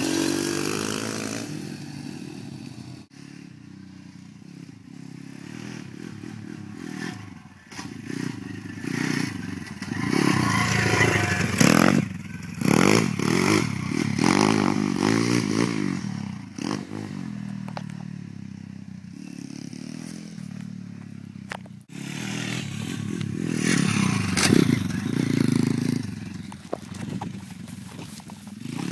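Small dirt bike engines revving up and down, their pitch rising and falling as the bikes accelerate and back off, getting louder as they come close around the middle and again near the end. A few sharp knocks and clatter come through between the engine notes.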